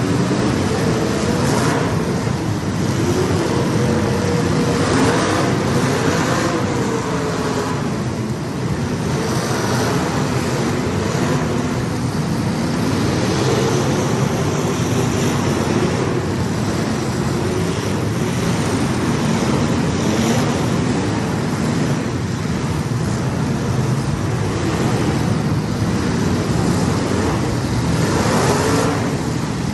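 Several racing engines running laps together, their pitches rising and falling as they pass and throttle on and off through the turns.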